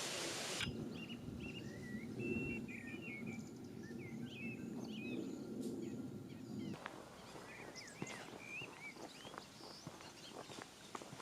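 Small birds chirping in short rising and falling calls over a low steady hum. About two-thirds of the way through, the hum cuts off suddenly and the birdsong goes on among scattered light clicks and taps.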